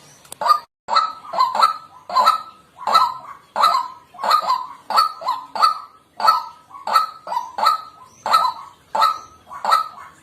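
White-breasted waterhen calling: a steady run of loud, honking notes, about one and a half a second, some in quick pairs.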